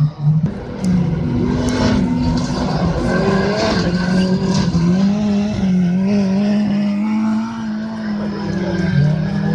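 Autocross race car engines running hard, their pitch rising and falling as the drivers accelerate and lift off, with a few sharp clicks in the first few seconds.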